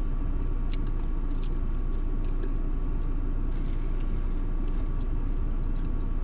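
Chewing and biting into a fried chicken wing, a few faint soft clicks, over a steady low rumble inside a car.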